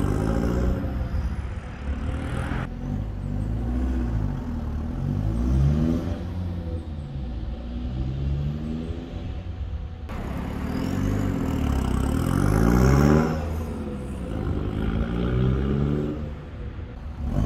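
Peugeot 206 2.0 HDi four-cylinder turbodiesel accelerating away from a standing start, its note climbing in pitch and dropping at each gear change. Separate launches are cut together about 3 s and 10 s in, with the switchable exhaust valve open (straight-through, louder) on some runs and closed (quiet) on others.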